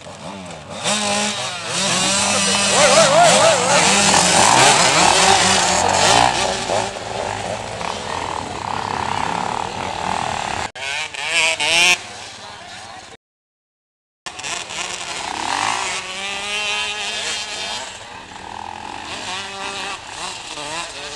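Several motocross bikes revving hard together, their engine notes rising and falling as they pull away. The sound cuts out completely for about a second past the middle, then the engines carry on less loudly.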